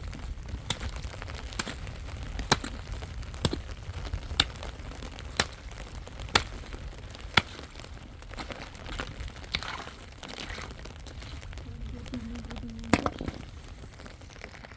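A run of sharp knocks or cracks, about one a second for the first eight seconds, then a few fainter irregular ones and one more strong crack near the end: something being struck or broken repeatedly.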